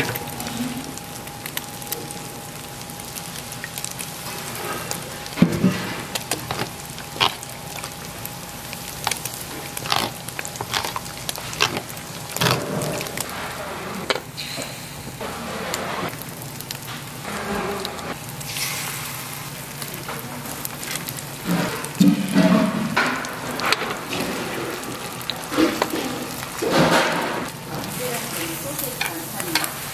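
Egg-battered slices of pink sausage sizzling in oil on a griddle, over repeated clinks and knocks of stainless steel pans and utensils.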